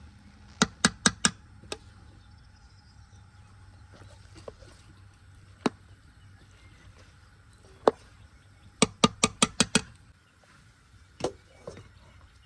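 A knife chopping on a cutting board: sharp taps in quick runs, four in about a second near the start, a few single strokes, then a run of about seven, with two more near the end.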